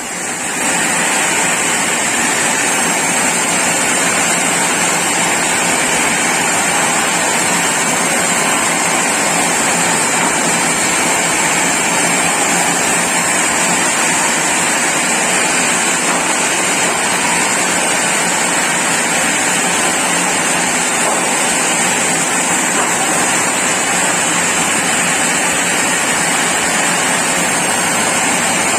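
Sawmill saw running steadily: a loud, even noise without breaks or changes.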